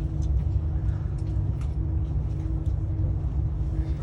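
Low steady rumble of a train running at a station platform, with a faint hum above it that keeps breaking off and coming back.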